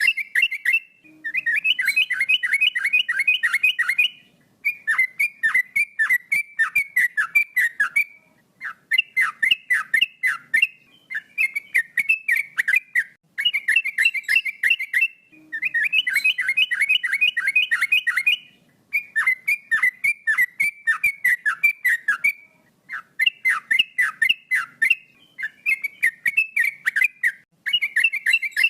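Male yellow-vented bulbul (trucuk) singing in quick runs of about five notes a second. Each phrase lasts two to four seconds, with short breaks between phrases.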